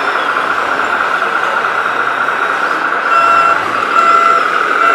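Reversing beeper of a radio-controlled model truck beeping in a steady on-off pattern from about three seconds in, over a steady mechanical whir.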